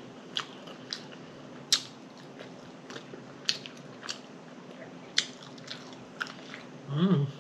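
A person chewing a bun-less double cheeseburger: wet lip smacks and sharp mouth clicks, irregular, about one or two a second.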